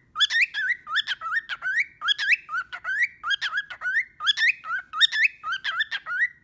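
Cockatiel calling in a rapid run of short, rising chirps, about three a second.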